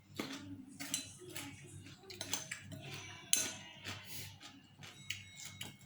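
Cutlery clinking and scraping against a bowl while eating noodle soup: irregular light knocks and clinks, the sharpest about three and a half seconds in.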